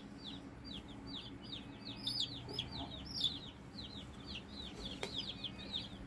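A brooder full of Cornish Cross meat chicks peeping continuously: many short, high, falling peeps, several a second, overlapping.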